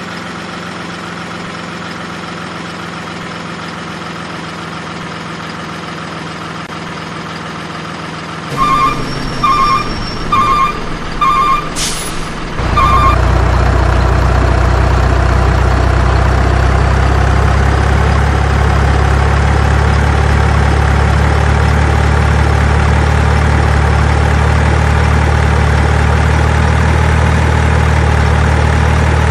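Simulated diesel truck sounds for a miniature RC truck. An engine idles steadily, then five short reversing beeps sound about 0.7 s apart with a brief air-brake hiss among them. Near halfway the engine turns much louder and heavier and keeps running at that level.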